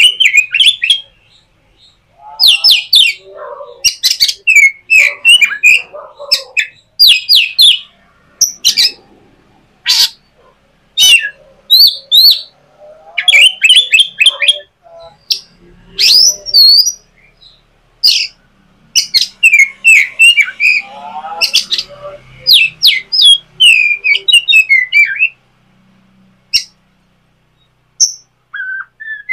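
A bird calling loudly and close up, in repeated bursts of sharp chirps and squawks with short pauses between them, mostly falling quiet near the end.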